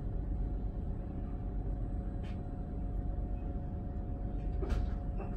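Inside a passenger train carriage: the steady low rumble of the train running, with two steady hum tones over it and a few sharp clicks, the loudest near the end.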